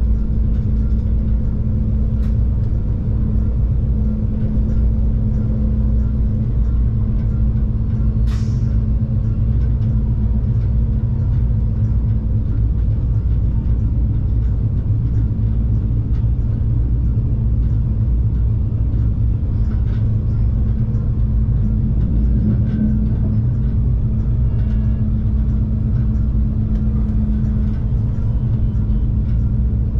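Stadler GTW diesel multiple unit running along the line: a loud, steady low rumble of the diesel power pack and wheels on track, with a constant hum. A brief sharp high noise cuts in once, about eight seconds in.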